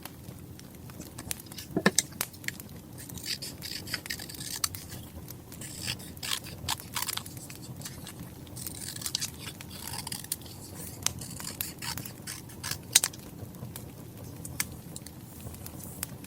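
Log fire crackling, with sharp pops, the loudest about two seconds in and near the end, over the rustle and scrape of paper and stickers being handled.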